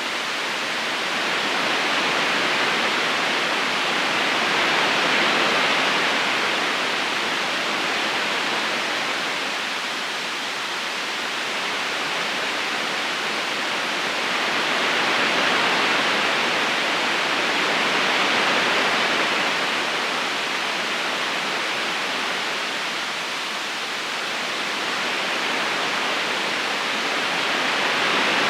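Steady rush of a flowing river current, an even hiss of water that slowly swells and eases in loudness.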